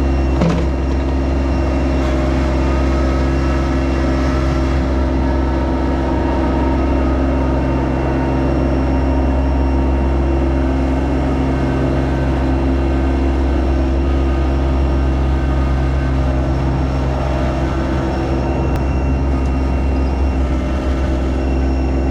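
Yanmar SA324 compact tractor's diesel engine running at a steady speed, with an even, unchanging drone.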